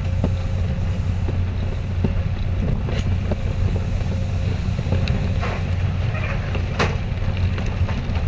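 Passenger train running steadily, heard on board: a continuous low rumble with scattered sharp clacks and rattles, a few louder ones about three, five and seven seconds in.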